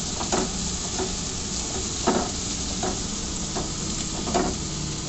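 Capsicum, garlic and ginger-garlic-chilli paste sizzling in hot oil in a pan while being stirred, with a utensil scraping the pan about five times at irregular intervals.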